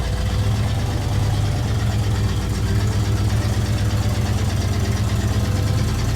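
Tow vehicle's engine running steadily while pulling the loaded car trailer: an even low drone with a fast, regular pulse.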